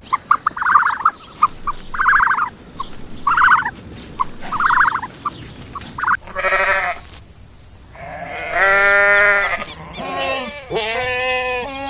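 Goats bleating: a run of short calls about a second apart, then, after a cut, two longer wavering bleats near the end.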